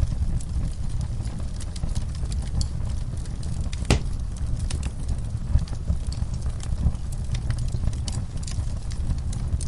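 Wood fire crackling, with scattered sharp pops over a steady low rumble; one loud pop about four seconds in.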